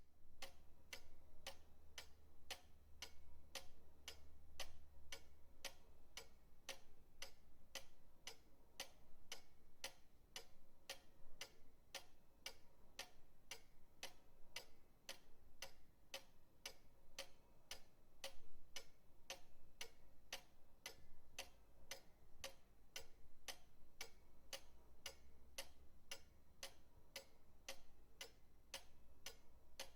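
Pendulum clock ticking steadily, about two ticks a second, over a faint low hum.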